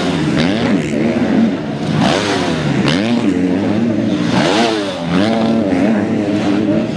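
Several motocross bikes' engines racing, revving up and down over and over as riders work the throttle, the pitch rising and falling about once a second with more than one engine heard at a time.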